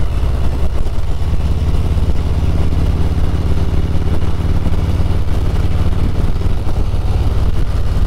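Harley-Davidson Road Glide's V-twin engine running steadily at cruising speed, heard from the rider's seat along with road and wind noise.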